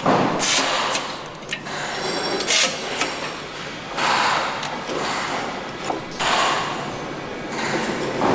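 Engine assembly-line work noise: repeated bursts of hissing, like air tools, mixed with sharp metallic clicks and clanks.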